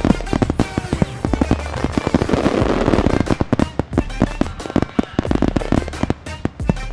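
Fireworks display going off in dense, rapid bangs and crackles, many reports a second, with music playing underneath.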